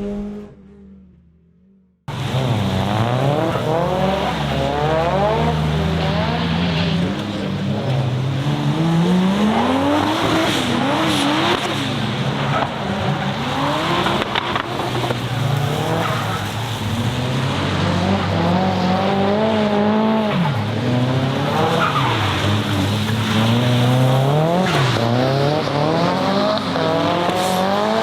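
Toyota 2JZ straight-six in a drifting Nissan Silvia S15, revving up and down again and again over tyre squeal. It starts about two seconds in, after a short fade to near silence.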